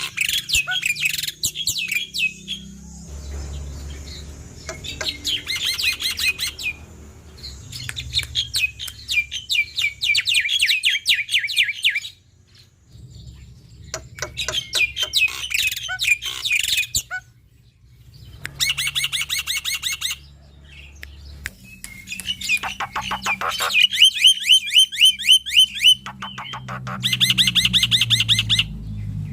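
Male black-winged starling (jalak putih) singing loudly: long bursts of rapid, repeated chattering notes, broken by short pauses.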